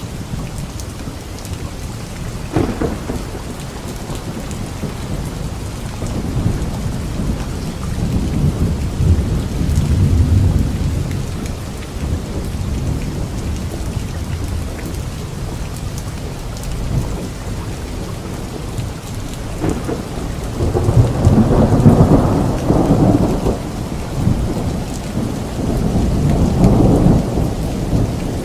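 Steady light rain falling on leaves, with thunder rumbling: a brief crack a couple of seconds in, a low rolling rumble around the middle, and a louder, longer roll about two-thirds of the way through that swells again near the end.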